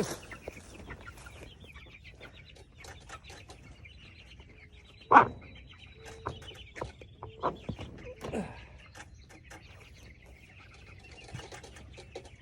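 Meat chickens (young broiler roosters) clucking in a chicken tractor, with a few louder short calls in the middle, over scattered light clicks and rattles.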